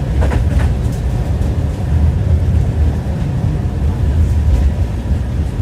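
Tram running along the track: a steady low rumble, with a few wheel clicks over rail joints early on.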